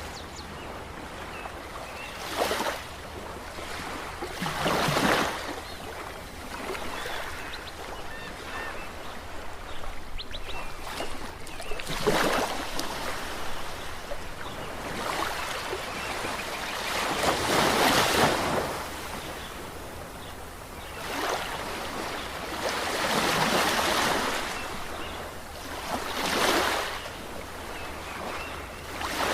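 Ocean waves breaking and washing in, a series of surges that swell and fade every few seconds, some louder than others.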